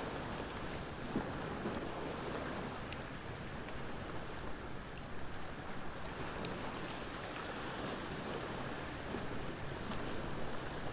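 Wood fire crackling with a few scattered sharp pops over a steady wash of ocean waves.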